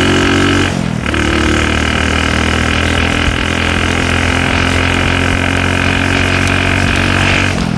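Motorcycle engine running steadily while riding, its note dipping briefly about a second in and again near the end.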